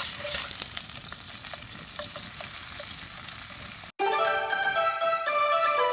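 Food sizzling and crackling as it is stir-fried in a hot pan over high heat, with scattered pops of spitting fat. It cuts off about four seconds in, and background music starts.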